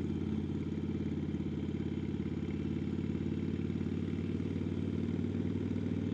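Harley-Davidson Sportster XL1200N's air-cooled 1200 cc V-twin running steadily under way through loud exhaust pipes, its exhaust note pulsing evenly.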